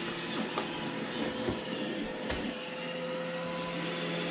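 iRobot Roomba E6 robot vacuum running as it drives back toward its dock, a steady motor hum and whir with a few light knocks in the first couple of seconds.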